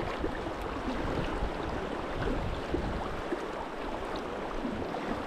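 Steady rush of a fast river current, with an uneven low rumble that eases a little after three seconds in.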